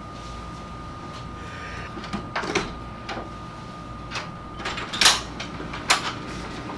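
A few short, sharp knocks and clicks, the loudest about five and six seconds in, over a steady background hum with a faint high tone.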